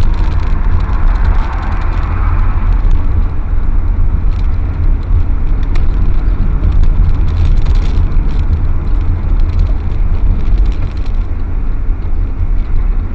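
A car driving, with a steady low rumble of engine and road noise and scattered faint clicks and rattles.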